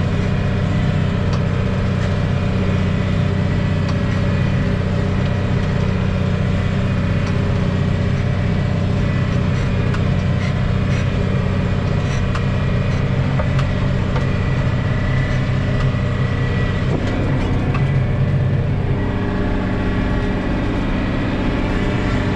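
Farm tractor engine running steadily under load while mowing hay, with a thin steady whine above the engine note. The note shifts slightly about three quarters of the way through.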